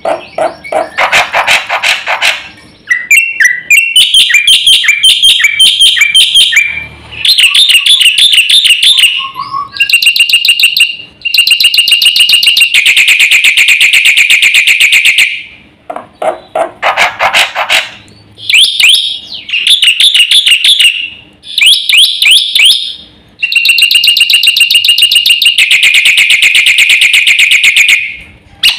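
Black-winged myna (jalak putih) singing loudly in a varied song: phrases of one to three seconds of fast repeated notes, separated by brief pauses.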